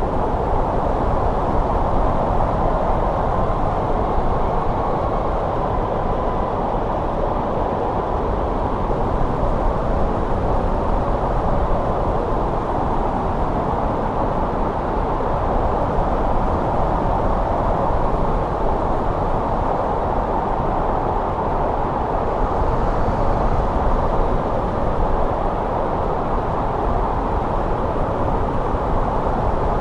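Steady winter wind blowing in an even, unbroken rush, with faint brief whistles here and there.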